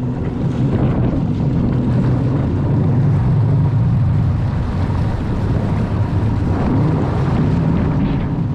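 Yamaha GP1200R jet ski's engine running steadily under way, with wind buffeting the microphone.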